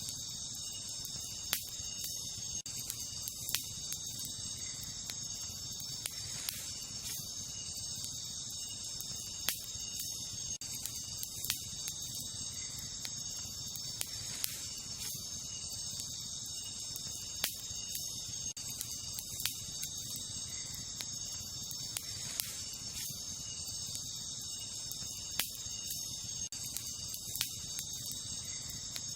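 Wood campfire crackling, with sharp pops at irregular intervals roughly every second or two over a low steady rustle of the flames. Behind it runs a steady, high chorus of night insects.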